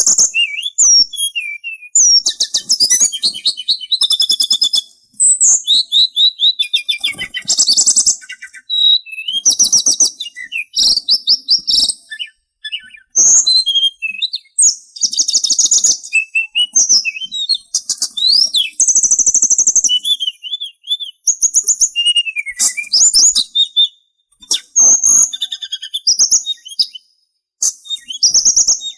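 Sulingan songbird singing a fast, high-pitched, chattering song of rapid trills and whistled notes. The phrases run almost without a break, with a few short pauses.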